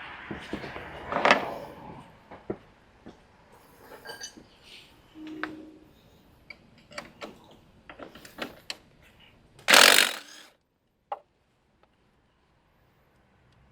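Hand tools and metal parts clinking and knocking during ATV axle work, in scattered irregular clicks, with one short loud rushing burst about ten seconds in, after which it goes nearly silent.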